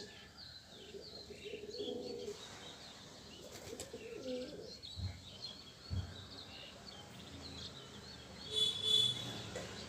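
Pigeons cooing low, with small birds chirping high and often throughout. There are two soft thumps in the middle and a louder, brief burst near the end.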